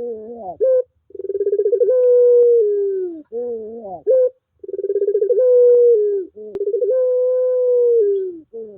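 Puter pelung (domestic Barbary dove) cooing: about three long drawn-out coos, each starting with rapid pulsing, held on a steady note and then falling away, with shorter rising notes between them. A sharp click comes about two-thirds of the way through.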